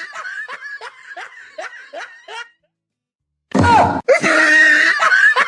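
A person laughing in quick repeated bursts, breaking off for about a second midway and then starting again louder.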